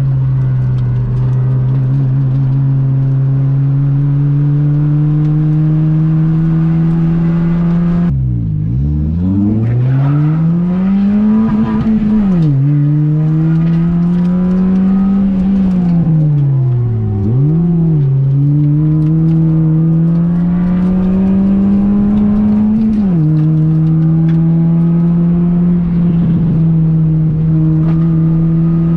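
Honda Fit's 1.5-litre four-cylinder engine being driven hard on a race track: it pulls steadily up through the revs, then drops sharply about eight seconds in with quick rev blips on the downshifts into a corner, climbs again, dips once more for another corner, and upshifts with a sudden drop in pitch near the end before pulling up again.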